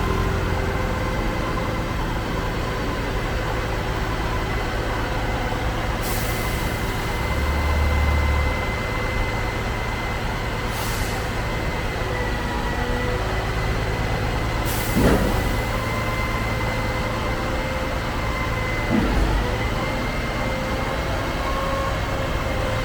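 Concrete pump truck running under load: its engine and hydraulics keep up a steady drone with a high whine. Short hisses come several times, and a louder thump with a brief dip in pitch comes about halfway through.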